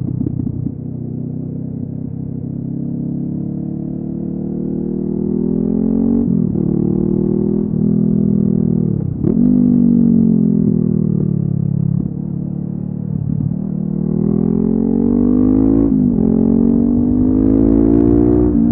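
Honda CB500F parallel-twin engine through a LeoVince aftermarket exhaust, heard from onboard while riding. The revs climb steadily and fall back sharply several times, as when shifting gear under acceleration.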